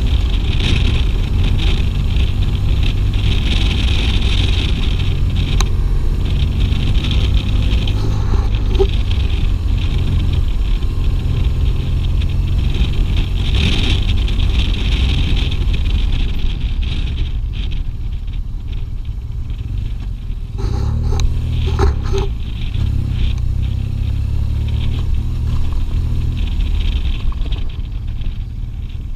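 BMW R 1200 GS flat-twin engine running as the motorcycle rides along, with a steady hiss over the engine note. About seventeen seconds in the hiss fades and the sound gets somewhat quieter.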